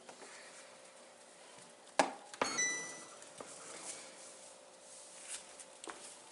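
A sharp knock about two seconds in, then a short ringing clink from the soda-filled glass-door beverage fridge.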